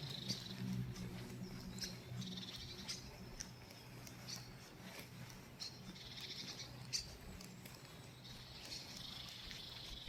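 Songbirds singing, with high trilling phrases that come back every few seconds. Faint short clicks run underneath, and a low hum fades out in the first couple of seconds.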